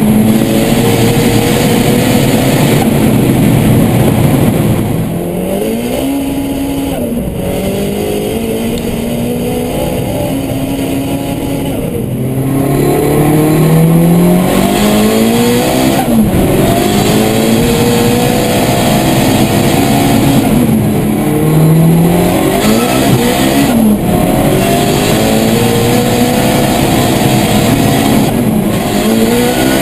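Engine of a 700-horsepower tuned Volkswagen Golf accelerating hard: the pitch climbs and drops back at each gear change, over and over.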